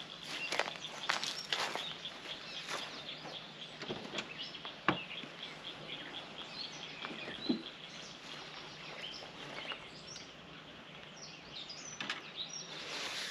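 Wild birds chirping and calling over a faint steady high tone, with a few sharp clicks or knocks, the loudest about five seconds in.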